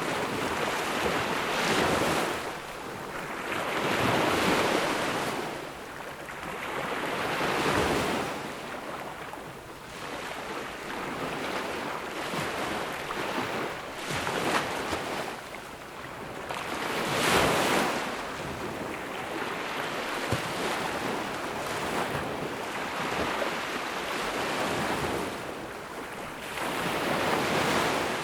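Ocean waves breaking and washing on the beach, one swell after another every few seconds, some louder than others.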